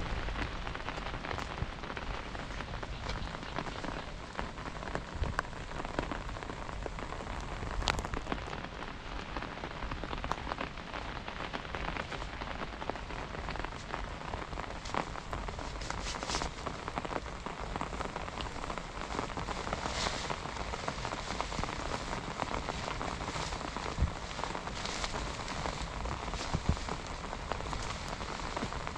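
Steady rain falling, with many separate drops ticking sharply against a surface.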